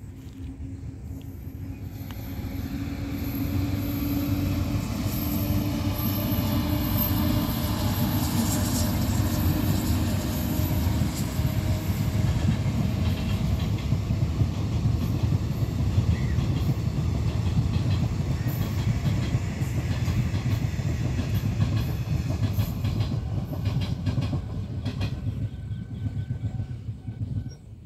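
Passenger train running past: a low rumble of coach wheels on the track with clickety-clack over the rail joints. A steady hum sits over it in the first half. The sound builds over the first few seconds and drops away near the end as the train moves off.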